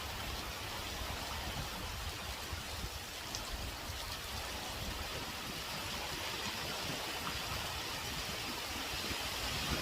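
Heavy rain pouring steadily, with strong wind rumbling on the microphone.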